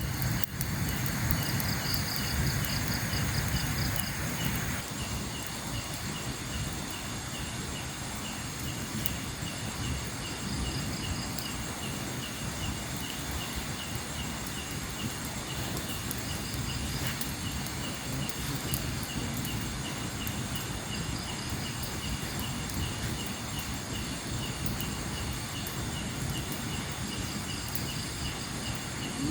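Night-time forest ambience: an insect chirping steadily at about two chirps a second, with another insect trilling in short spells, over a steady low rumble. A hiss underneath stops about five seconds in.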